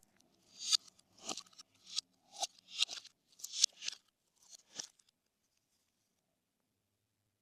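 Slime being squeezed and pressed by hand, giving a series of short crackly pops and crunches, about two a second, that stop about five seconds in.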